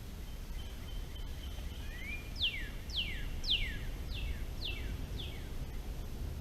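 A songbird sings a held whistle, then a run of six clear downslurred whistles, about two a second, each falling steeply in pitch. A low steady rumble runs underneath.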